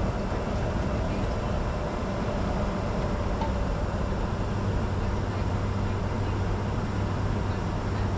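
Steady cockpit noise of a Bombardier Challenger 605 business jet: engine and airflow noise with a constant low hum.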